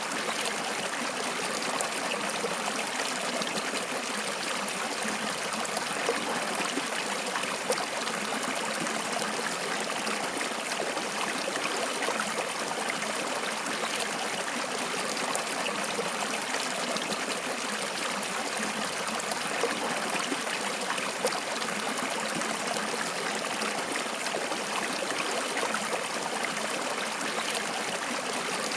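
Stream water flowing and trickling steadily over stones, a continuous splashing rush with small crackles and no break.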